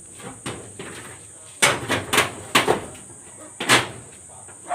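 Hammer blows in carpentry work: a quick run of four strikes a little over a second in, then one louder strike about a second later.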